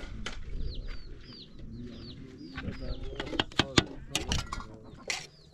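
A bird peeping repeatedly, a run of short falling chirps about two a second, then sharp clinks and scrapes of a metal ladle against an aluminium pot of boiled rice.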